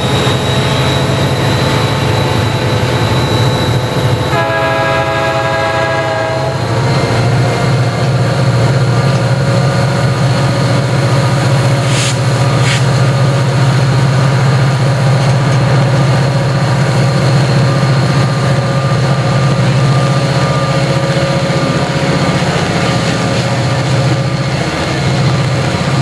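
Freight train of diesel locomotives and hopper cars passing close by. A multi-note air horn sounds for about two seconds a few seconds in, over a steady low engine drone and rolling wheels, with two sharp clacks a little past the middle.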